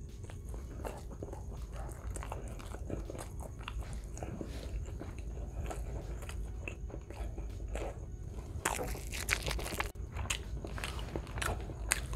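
A person chewing a mouthful of grilled chicken asado, a string of irregular wet clicks and crunches. It gets busier and louder about three-quarters of the way through.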